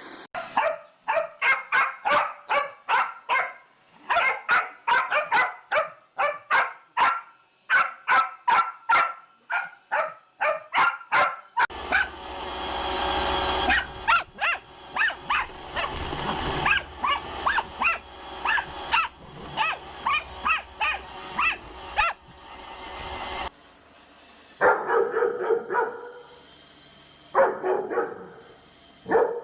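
A dog barking in quick runs of short barks, about two a second, with brief pauses between runs. In the middle stretch a steady background noise runs under the barking, then stops.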